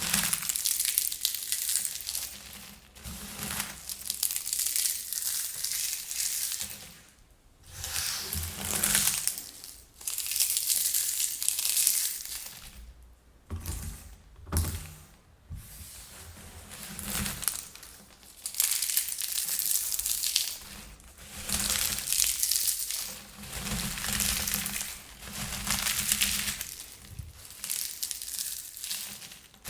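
Air-popped popcorn crushed in the hand, crackling in repeated squeezes of a few seconds each with brief pauses between them.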